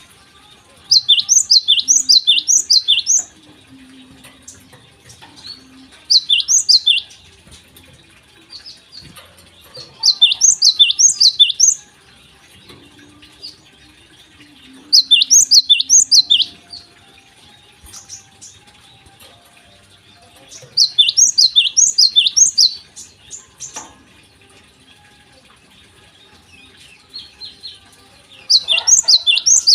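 A gelatik singing: six bursts of quick, repeated high notes, each note falling in pitch, about four or five notes a second. Each burst lasts one to two seconds, with pauses of several seconds between them.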